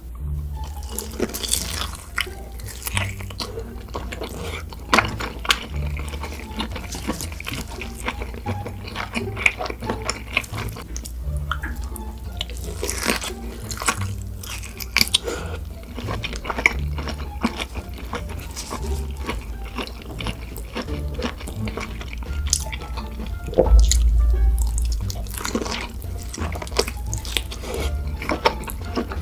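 Close-miked wet mouth sounds of biting into and chewing a large piece of roasted pork belly, full of quick smacks and crackles. Background music with a bass line plays underneath, and a heavy low thump comes about five seconds before the end.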